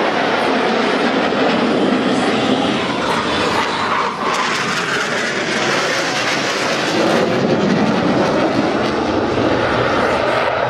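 Jet aircraft of the Patrouille Suisse formation flying past: loud, steady jet engine noise, with a brief swell and shift in pitch about four seconds in.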